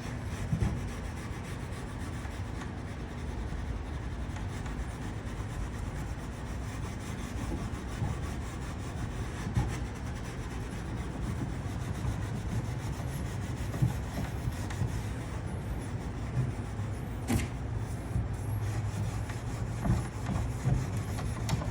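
Fine 0000 steel wool, wet with Restor-A-Finish, rubbed back and forth over the finished surface of a piece of wooden furniture: a steady scrubbing sound with a few small knocks.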